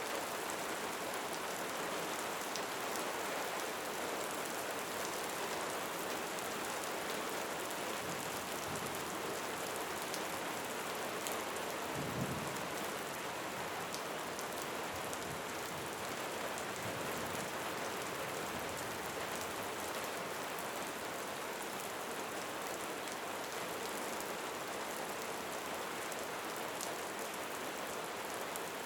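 Steady rain falling in a dense, even patter, with a single brief low thump about halfway through.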